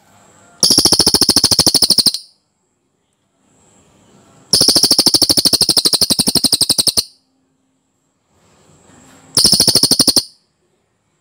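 Cililin songbird singing a dense, fast rolling trill, high-pitched, in three bouts: the longest about two and a half seconds, the last under a second, with short pauses between.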